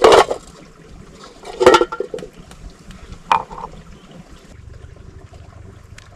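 Water splashing and sloshing in three loud bursts over the first few seconds, then a quieter steady trickle.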